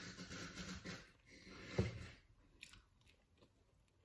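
Close-up chewing and mouth sounds of someone eating, with a sharper knock about two seconds in, then only faint chewing clicks.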